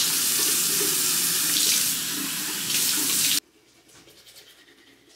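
Water running from a tap into a sink, a steady rush that stops suddenly about three and a half seconds in, followed by faint small sounds.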